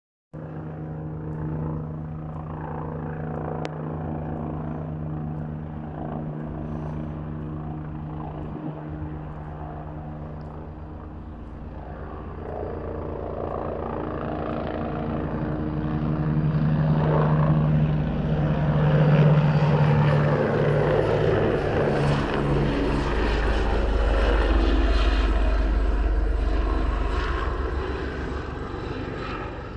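Firefighting helicopter's rotors and engine running in a steady drone. It grows louder as it comes close, is loudest from about two-thirds of the way through, and fades slightly near the end.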